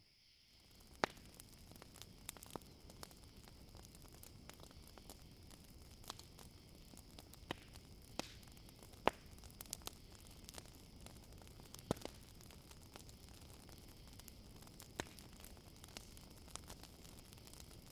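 Campfire crackling: irregular sharp pops and snaps over a low hiss, a few of them louder, with a steady high chirring of crickets behind. The sound dips almost to nothing at the very start and comes back within half a second.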